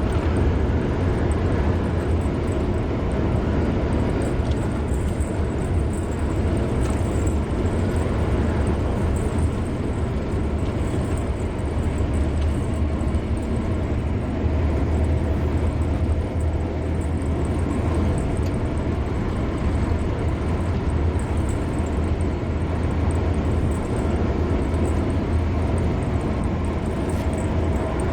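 Steady road noise of a car driving at speed: a continuous low rumble of tyres and engine with an even hiss over it.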